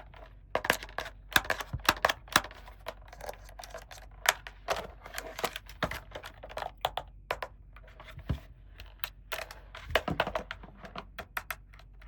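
Small plastic toy pieces and packaging being handled, giving irregular sharp clicks and taps, often several a second.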